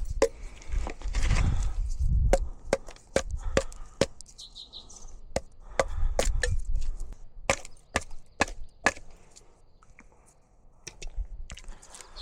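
Dry wood cracking and snapping in sharp, irregular clicks, a few a second, with a low rumble underneath.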